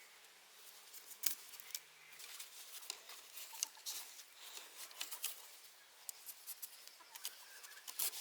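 Irregular small clicks, taps and rustles, with a denser cluster of sharper clicks near the end.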